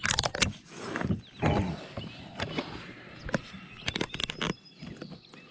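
Irregular knocks, clicks and rustling from a freshly caught bass and fishing gear being handled aboard a kayak. The knocks are loudest and most frequent in the first half and thin out toward the end.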